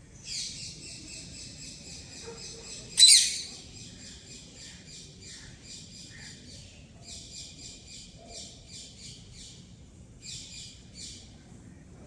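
A bird calling in a long, fast run of high, evenly repeated notes, with two brief pauses, stopping about a second before the end. A single sharp click about three seconds in is the loudest sound.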